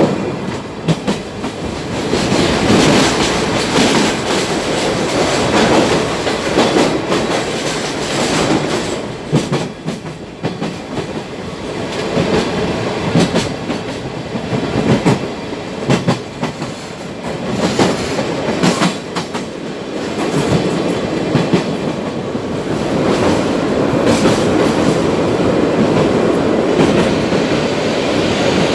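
Sagano trolley train running along the track: a steady rumble of wheels on rail, with irregular clicks and clacks as the wheels cross rail joints.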